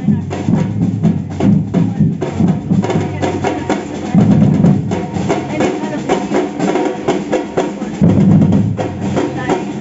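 Samba percussion band playing a fast, driving drum rhythm of bass drums and snare-type drums, with heavy bass-drum surges about four seconds in and again about eight seconds in.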